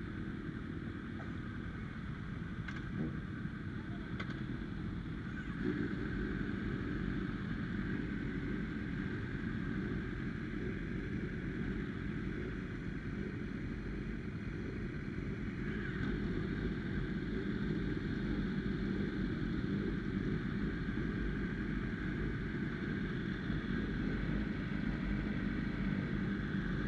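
Steady vehicle running noise: a continuous low engine and road drone that holds an even level, picking up slightly about six seconds in.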